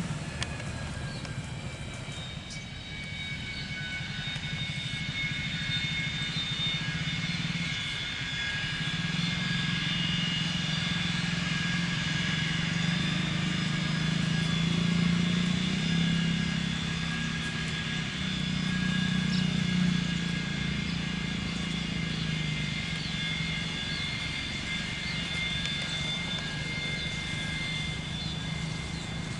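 Turbofan engines of an Airbus A330 jet airliner running steadily, with a layered high-pitched whine over a low hum. The hum grows louder for a while in the middle, then settles again.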